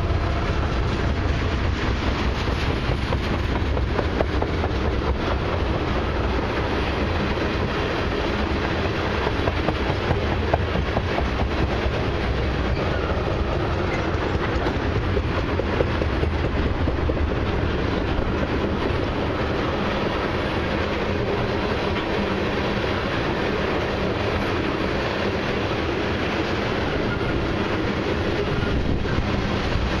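Loaded tank cars of a freight train rolling past: a steady rumble of steel wheels on rail, dotted with many small clicks from the passing wheels and cars.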